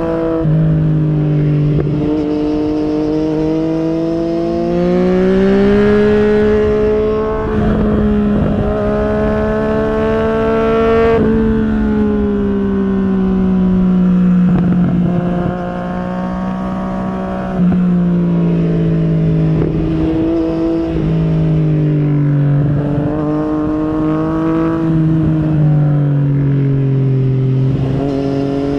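Yamaha MT-09 SP's inline three-cylinder engine through an Akrapovic carbon racing exhaust, running under way. Its pitch climbs steadily for several seconds, eases back around the middle, and later falls in short steps.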